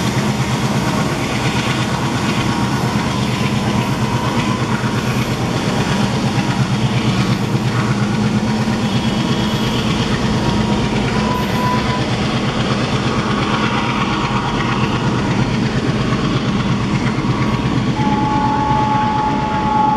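ALCO diesel locomotive running with a train, a steady heavy engine sound mixed with wheel and rail noise. Brief thin high-pitched squeals come in about halfway through and again near the end.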